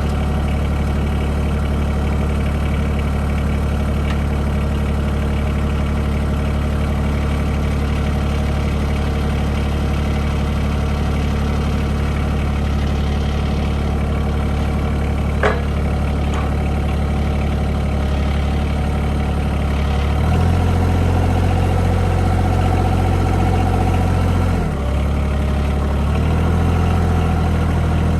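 Bad Boy compact tractor's engine running steadily. About two-thirds of the way through it speeds up and gets louder, drops back for a moment, then rises again. A single short squeak comes about halfway through.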